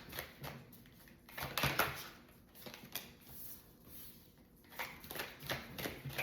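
A deck of tarot cards being shuffled and handled by hand, in several short bursts of riffling and flicking.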